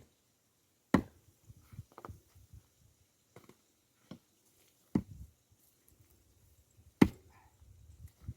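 Axe striking and splitting larch firewood logs: three sharp, hard chops, about a second in, around five seconds, and a loudest one near seven seconds. Lighter wooden knocks come in between.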